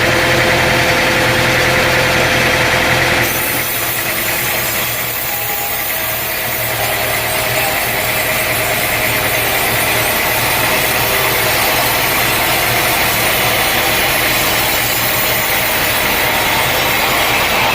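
Sawmill machinery running steadily, an engine hum with a saw working. About three seconds in the sound changes abruptly to a brighter, hissier mix with a steady whine.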